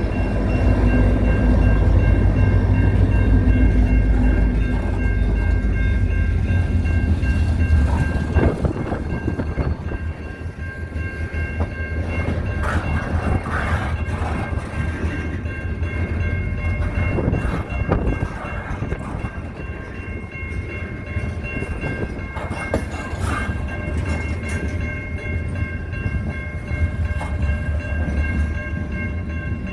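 A fouled train horn sounding one steady multi-note chord, held on without a break. Heavy low wind rumble on the microphone is strongest in the first several seconds, with occasional gusty thumps.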